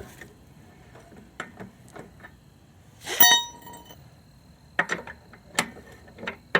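Metal clicks and clinks of a tire iron working on a car's lug nuts, with one loud ringing metallic clank about three seconds in and a few sharper knocks near the end.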